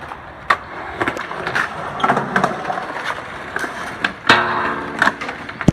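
Skateboard rolling, with several sharp clacks and impacts of the board. The loudest impact, about four seconds in, rings on briefly.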